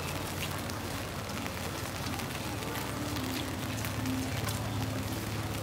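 Steady rain falling on the street, with scattered drop ticks, over a low, steady hum of city traffic.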